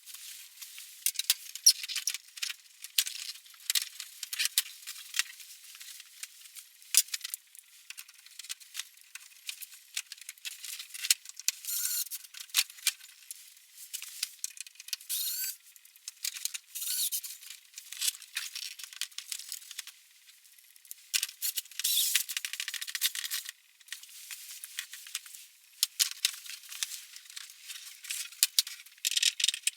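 Metal tools and small parts being handled in workshop maintenance on a scooter: many sharp clicks and rattles with short scrapes, and a few longer scraping stretches, the longest a little past two-thirds through.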